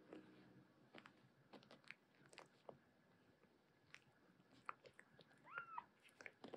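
Faint rustling and small clicks of a tabby cat and a kitten tussling and grooming on a plush blanket, with one short high mew from the kitten about five and a half seconds in.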